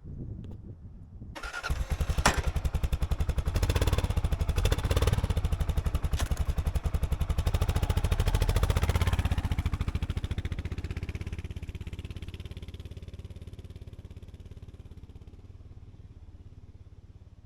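Kawasaki KLR650 single-cylinder motorcycle engine running with a fast, even beat. It comes in suddenly about a second in, is loudest for several seconds, then fades steadily away.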